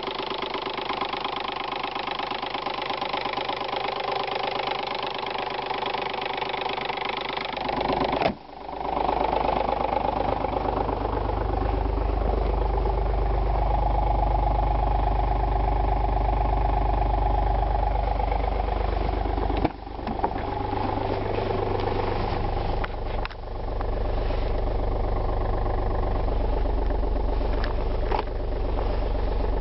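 VW Lupo 3L's three-cylinder 1.2 TDI diesel idling while still cold after a start at −10 °C. A sharp thump comes about eight seconds in, after which the engine sound turns deeper and boomier, with two smaller thumps later on.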